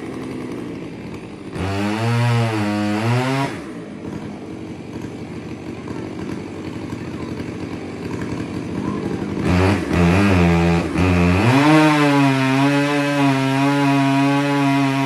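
Two-stroke chainsaw idling and being revved up twice, then held at a steady high speed for the last few seconds.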